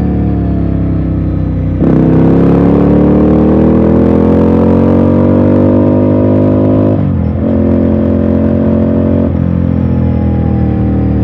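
Ducati Scrambler Sixty2's air-cooled L-twin engine under way. It runs off the throttle with falling pitch, then is opened up about two seconds in and climbs in pitch for several seconds. A short dip about seven seconds in, like a gear change, is followed by steadier running, and near the end the throttle closes and the pitch falls again.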